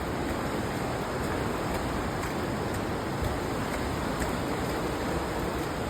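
River water rushing steadily, an even wash of noise with a few faint ticks now and then.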